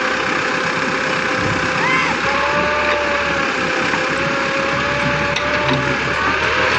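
Tractor engine running steadily, with a thin wavering whine over it through the middle.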